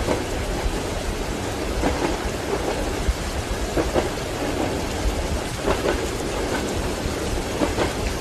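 Steady rain with a low rumble of thunder, mixed with train wheels knocking over rail joints, a short clack roughly every two seconds.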